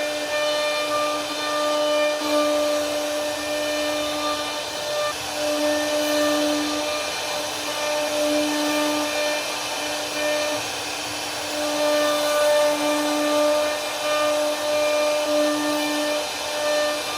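CNC router spindle running while cutting wood, a steady high whine over a constant hiss. The whine swells and fades every second or two as the bit works through the carving.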